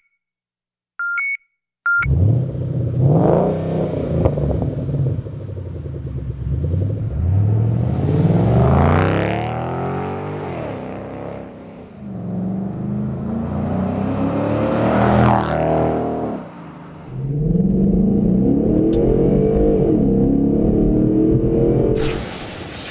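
A few short high beeps, then the 5.0-litre V8 of a 2011 Ford Mustang with an aftermarket stainless axle-back exhaust, revving and accelerating in several runs, its pitch climbing and then dropping back each time.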